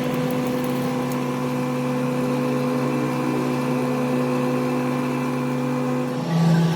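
A machine motor running with a steady hum; about six seconds in the hum changes and grows louder.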